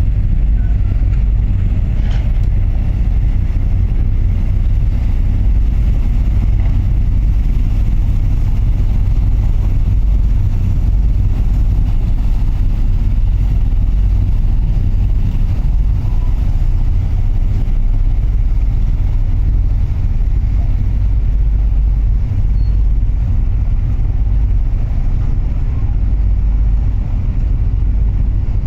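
Steady low rumble of the cruise ship Royal Chidori's engines as it gets under way leaving port.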